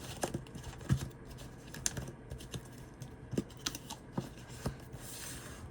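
Light, irregular clicks and taps of a tarot deck and guidebook being handled and packed into their cardboard box, with a short soft rustle near the end.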